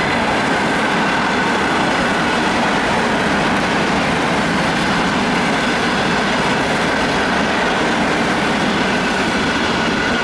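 Electric passenger train passing close at speed: a steady, loud rumble of wheels on rails, with a high whine held throughout.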